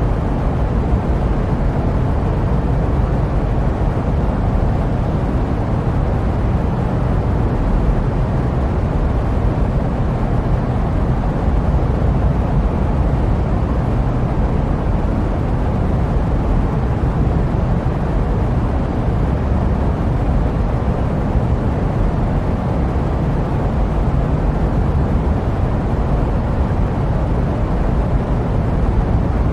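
Steady jet-plane engine noise used as white noise: an even low rumble with a softer hiss above it, unchanging throughout.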